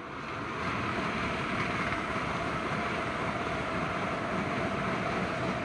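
LNER Azuma (Hitachi Class 800/801) high-speed train passing at speed: a steady rush of wheels on rail and air with a faint whine. It builds over the first second, then holds loud and even until the train has gone by near the end.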